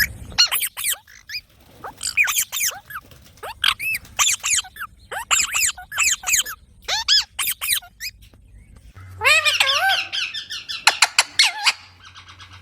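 Green parrots calling: a run of short, sharp chirping calls in quick clusters, then about nine seconds in a denser, lower burst of squawking calls.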